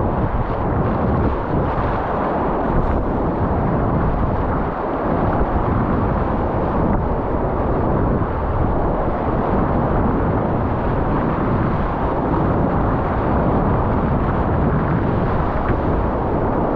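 Steady, loud rush of whitewater rapids heard close up from a kayak, full and low-heavy with no let-up.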